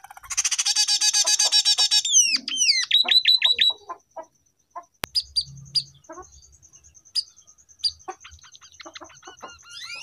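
Scaly-breasted munia (emprit peking) singing canary-style song that it has learned: a fast, loud trill for about two seconds, then a run of quick falling whistles, then scattered short chirps over a thin high note.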